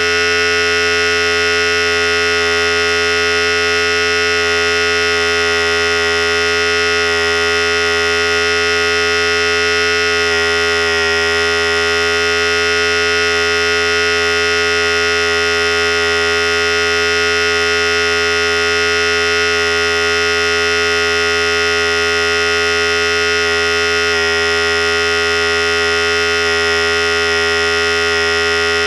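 Philips Series 5000 hair clipper running with a steady electric buzz, shifting slightly in tone now and then.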